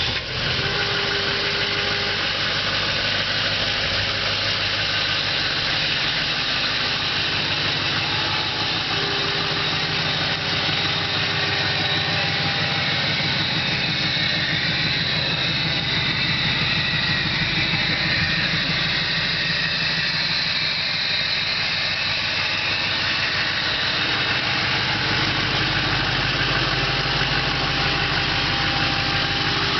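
2011 Chevrolet 3500HD service truck's engine idling steadily.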